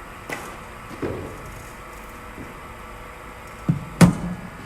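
A cricket bat striking a ball fed from a bowling machine: a sharp, loud knock about four seconds in, with a softer low thump a moment before it. A few faint knocks come earlier.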